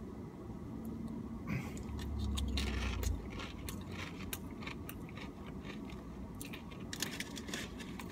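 Crunching and chewing a Tostitos tortilla chip loaded with dip: many sharp crunches that come thickest near the end, with a low hum about two seconds in.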